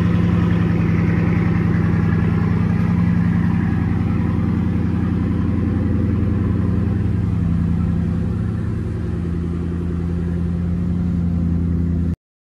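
Bugatti Divo's quad-turbo W16 engine idling steadily at an even pitch, dipping slightly in level about eight seconds in, then cutting off abruptly near the end.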